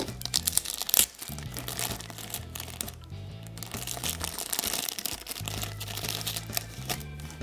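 Toy packaging crinkling and rustling as the small parts of a Tomica toy set are handled, over background music with a steady bass line.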